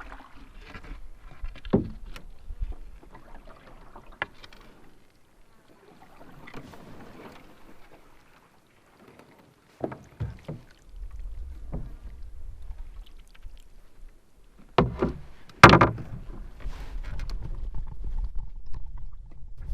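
Canoe sounds: paddle strokes in the water and irregular knocks on the hull, with a pair of loud knocks about fifteen seconds in, over a low wind rumble on the microphone.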